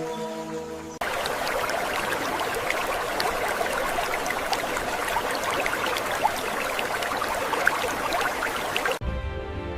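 Water trickling and splashing: a dense, even patter of tiny droplet sounds that starts abruptly about a second in and stops abruptly near the end, with soft music before and after.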